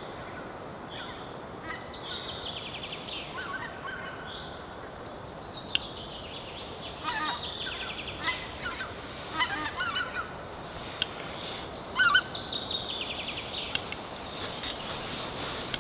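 Goose honking in short bursts of calls, the loudest about twelve seconds in, mixed with rapid high rattling bird calls over a steady hiss.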